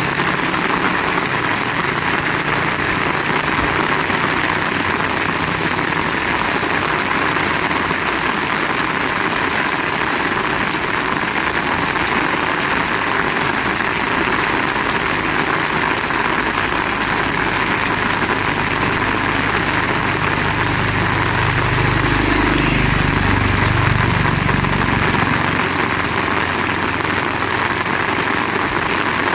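Heavy rain hissing steadily throughout. Under it runs the low hum of a motor vehicle's engine, which grows louder past the halfway mark, peaks and shifts in pitch, then fades away near the end.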